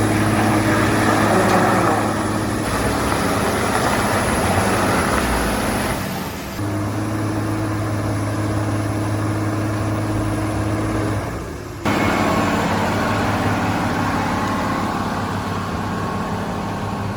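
Heavy truck engines running steadily under load. The sound breaks off abruptly twice, about six and twelve seconds in, and each time the engine noise comes straight back.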